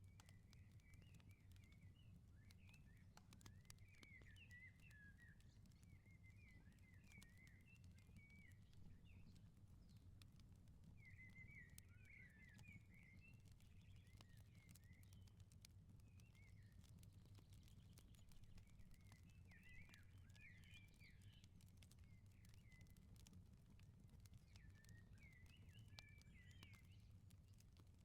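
Faint outdoor firepit crackling, with scattered small pops over a low steady rumble of burning, and a small bird twittering in short bursts of quick chirps.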